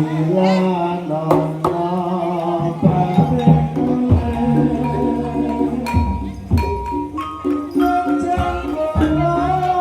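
Javanese gamelan accompaniment for an ebeg horse dance: held pitched notes from tuned percussion over regular drum strokes.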